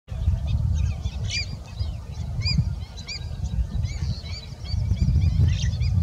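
Birds calling in many short, high chirps, several a second, over a loud, uneven low rumble.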